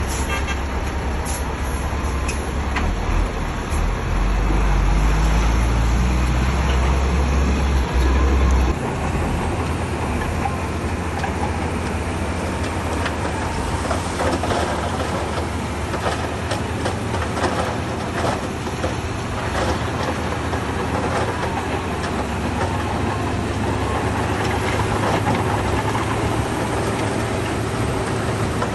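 Shantui bulldozer's diesel engine working under load, with a heavy low rumble that drops abruptly to a lighter steady hum about nine seconds in. Steel tracks and pushed stone clank and rattle throughout, more densely in the second part.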